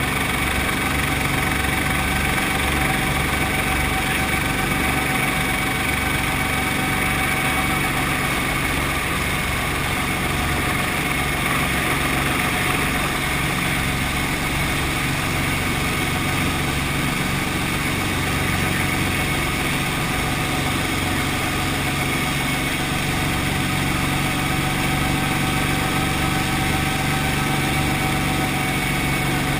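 Brantly B2B helicopter's piston engine and rotor running steadily, a constant drone with no change in speed.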